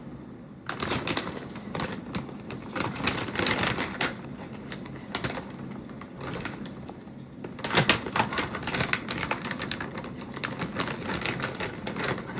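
Crystal beads clicking and clattering together as bead bracelets are handled, in two spells of dense rapid clicks with a short lull between them.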